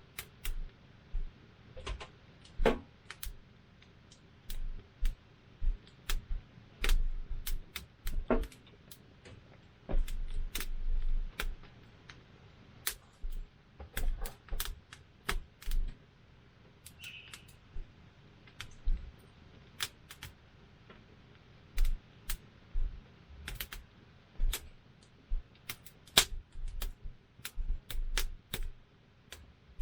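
Wood campfire crackling: burning wood snapping and popping in irregular sharp clicks, several a second.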